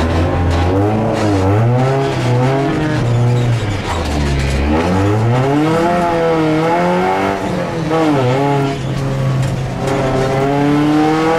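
Porsche 944's four-cylinder engine heard from inside the race car's cabin at racing speed, its pitch climbing under acceleration and dropping sharply at gear changes several times, with a deep low dip about four seconds in and a long climb near the end.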